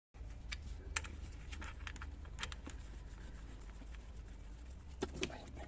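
Scattered light clicks and clinks of hand tools and small metal parts being handled during engine work, a few at a time at irregular intervals, over a low steady hum.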